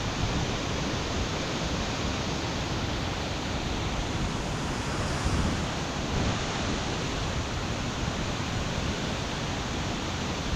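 Steady rush of a waterfall in spate, swollen by heavy rain, an even roar of water with no breaks.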